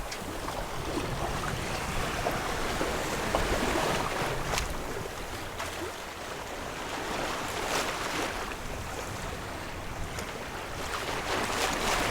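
Sea and wind aboard a sailing yacht under way: water rushing along the hull and wind on the microphone, with a few louder surges.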